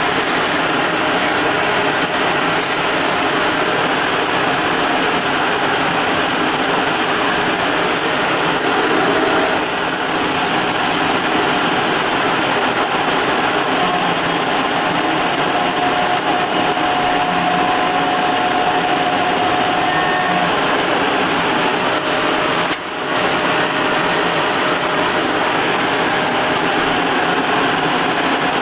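Kress router spindle running at about 20,000 rpm as a 2 mm two-flute end mill cuts 3 mm aluminium on a home-built CNC milling machine, a loud, steady, high whirring cutting noise. The level drops briefly once, late on.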